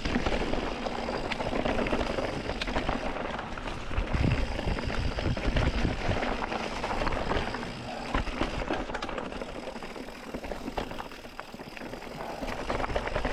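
Mountain bike riding down dirt singletrack: tyres rolling over dirt and rocks, with the bike rattling and clicking over bumps and steady rumble on the microphone.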